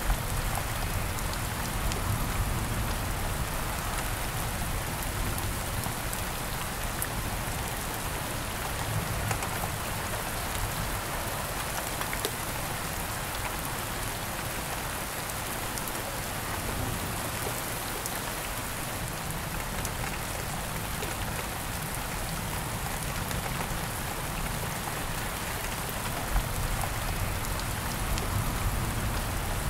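Steady rain falling: an even hiss of rain on surfaces, flecked with scattered ticks of single drops.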